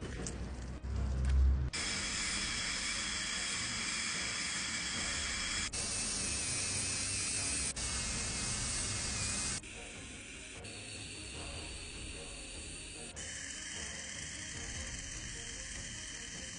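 Dental equipment hissing and whining, typical of a high-speed handpiece with air-water spray, in short edited clips that cut off suddenly several times. A brief low thump comes about a second and a half in.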